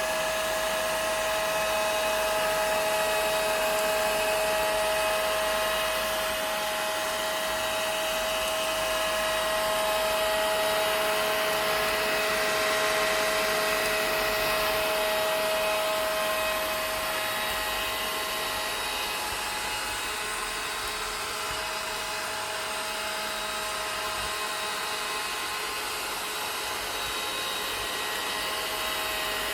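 Vacuum cleaner motor running steadily: a constant whine over a rushing hiss, easing slightly in level about halfway through.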